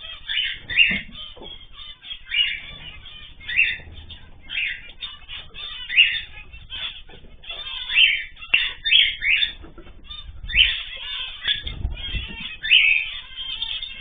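Small cage birds calling, short sharp calls repeating about once a second, sometimes several in quick succession.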